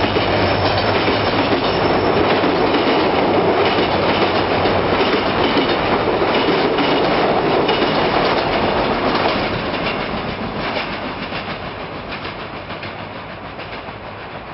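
Diesel-hauled passenger train rolling past, its coaches' wheels clattering steadily on the rails, with the locomotive's low engine hum dying away in the first few seconds. From about nine seconds in, the sound steadily fades as the train draws away.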